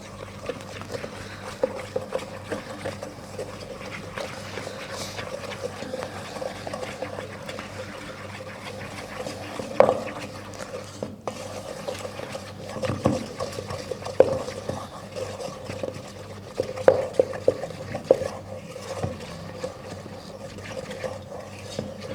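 A wooden spoon stirring eggs into self-raising flour in a mixing bowl: steady scraping, with a few sharp knocks of the spoon against the bowl.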